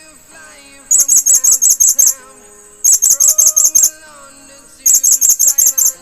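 Blue-crowned hanging parrots (serindit) calling in three bursts of rapid, high, sharp chirps, about nine notes a second, over background music.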